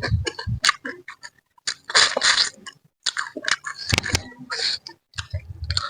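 Close-miked eating of a spicy manyung fish-head mangut: chewing and wet mouth noises, with many sharp clicks and a few short hissy bursts.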